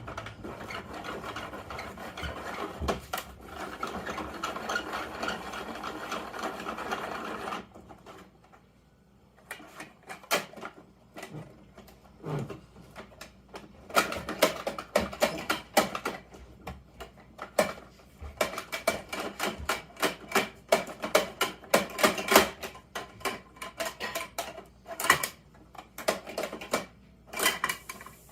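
Plastic parts of a Bruder Mack toy garbage truck being worked by hand, with rapid, irregular clicking and rattling. It starts after a steady mechanical whirring that cuts off suddenly about seven seconds in.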